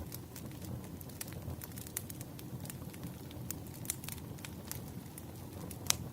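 Firewood burning: a steady low rumble of flames with scattered sharp crackles and pops, one louder pop near the end.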